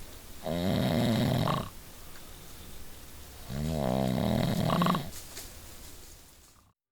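A person snoring: two long, loud snores about three seconds apart.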